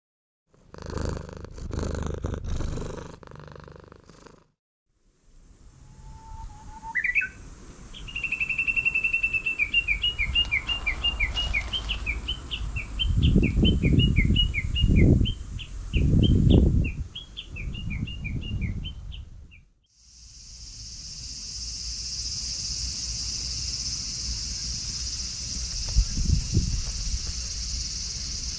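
A songbird singing a fast, repeated trilling song for about twelve seconds, with low rumbling bursts beneath it. Then a steady, high-pitched insect drone takes over.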